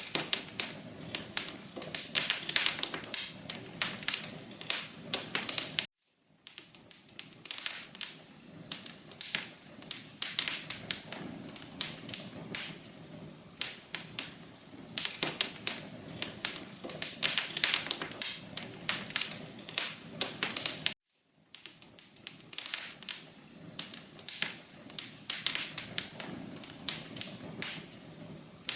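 Wood fire crackling in a fireplace: dense, irregular sharp pops and snaps over a soft steady hiss. The sound cuts out to silence twice for a fraction of a second, about six seconds in and again about two-thirds of the way through.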